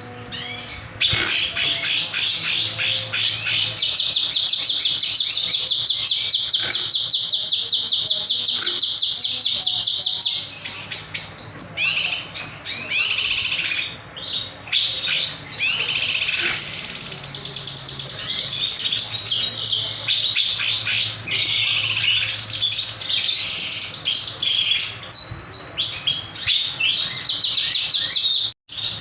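Kinoy songbird singing continuously: a long, fast, unbroken trill of sharp notes in the first third, then varied chattering phrases with short breaks. The sound cuts out briefly near the end.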